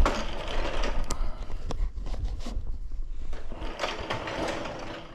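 Scraping and a few sharp metallic clicks and clunks of a car road wheel being handled and fitted back onto the hub after a brake pad change.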